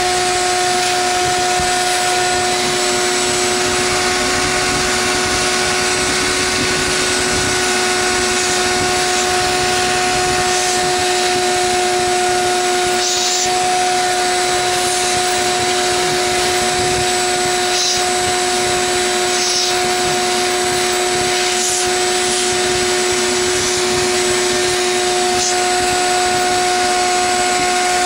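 Bee vacuum running steadily while sucking up bees: a constant motor hum with a strong steady tone over rushing air, and a few faint ticks.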